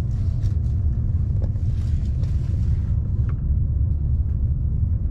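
Steady low rumble of a fast passenger train, heard from inside the carriage, with a faint hiss above it that fades about three seconds in.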